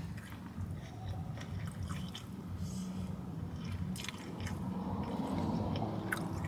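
A person chewing a rice-and-vegetable bowl, with a fork scraping and clicking in the paper bowl, over a steady low hum.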